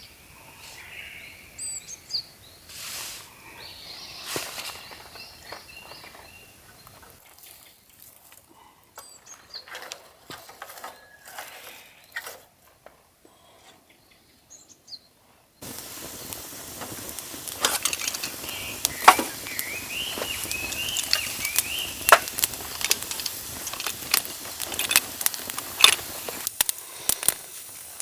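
Birds chirping outdoors, with scattered clicks and knocks. A little past halfway the background noise jumps up abruptly, and the clicks come thicker under further chirping.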